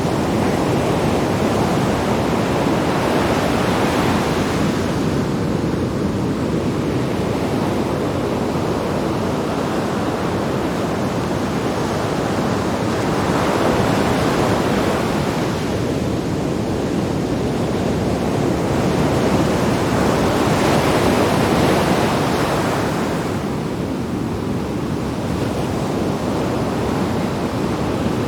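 Sea waves breaking on rocks: a continuous wash of surf that swells three times as breakers come in, several seconds apart.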